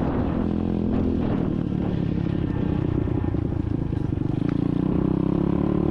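SSR 125cc dirt bike's single-cylinder four-stroke engine running steadily while riding, easing off briefly a little past halfway and then pulling again.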